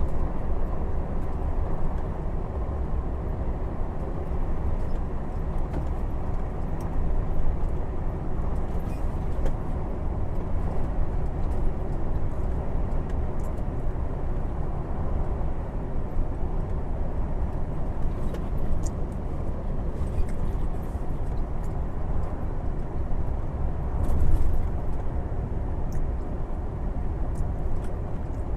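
Gas-powered lorry driving at cruising speed: a steady low rumble of engine and tyre noise, with a brief louder swell near the end.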